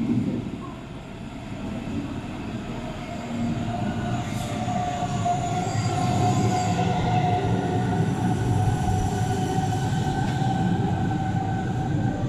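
Hamburg S-Bahn electric train arriving at a platform and braking. The low rumble of the wheels on the track grows louder as it comes in. About four seconds in, a high whine joins it and slowly falls in pitch as the train slows.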